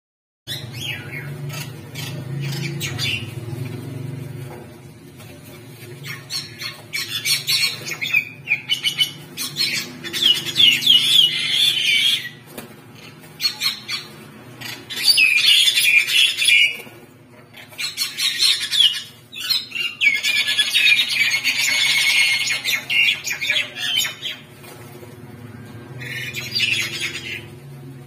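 Small birds squawking harshly in repeated bursts of rapid calls, each lasting one to three seconds, the agitated calls of birds fighting. A low steady hum runs underneath.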